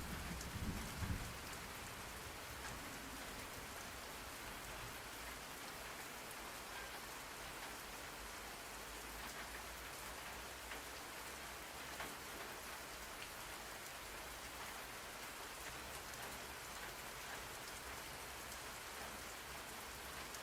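Steady rain falling on a surface, an even hiss of drops, with a low rumble of thunder dying away in the first second or so.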